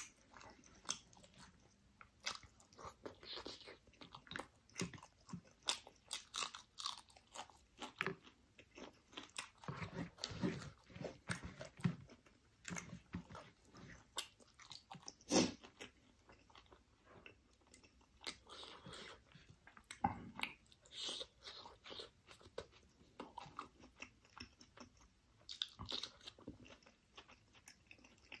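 Close-up eating sounds of chicken curry eaten by hand: irregular chewing, wet smacking and short clicks of lips and mouth. The loudest is a single sharp click about fifteen seconds in.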